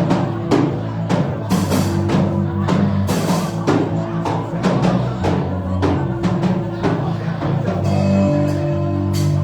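Worship band music: a drum kit keeps a steady beat of several hits a second over sustained low chords.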